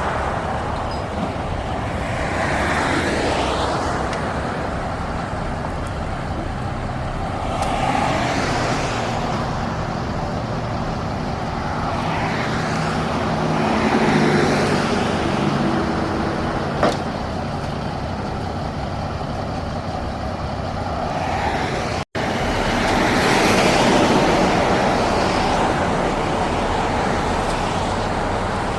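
Road traffic passing in a series of swells, with a truck engine running steadily under it for a few seconds around the middle.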